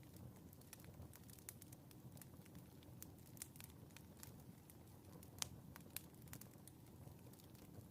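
Wood fire crackling in a fireplace: irregular sharp pops over a faint low rumble, with one louder pop about halfway through.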